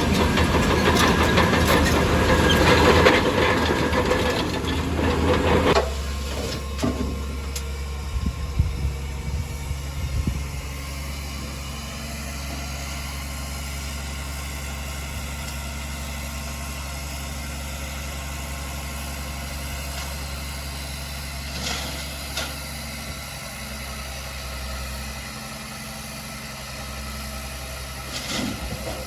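Heavy diesel engine of an earthmoving machine working hard for about six seconds, then dropping suddenly to a steady low idle, with a few knocks and clanks shortly after.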